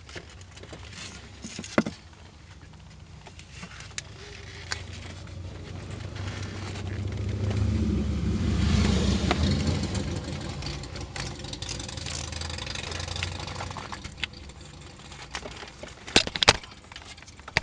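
A motor vehicle passes by, its engine and road noise swelling to a peak about nine seconds in and then fading away. Several sharp clicks and knocks come near the start and again near the end.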